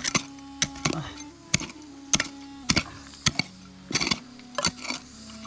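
Sharp knocks repeating about twice a second, over a low steady tone that shifts in pitch a few times.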